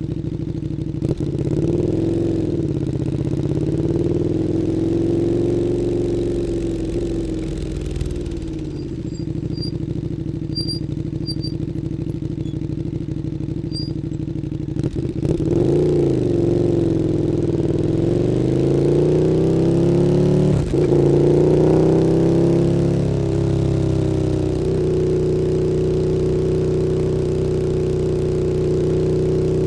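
KTM 1290 Super Duke R's V-twin engine running through an Akrapovič Evolution Line exhaust while being ridden, the revs rising and falling repeatedly. There is a brief sudden drop in the engine note about two-thirds of the way through, and it holds steadier near the end.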